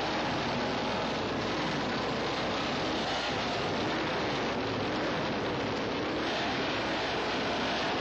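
Engines of historic racing motorcycles running, a steady drone with wavering pitch.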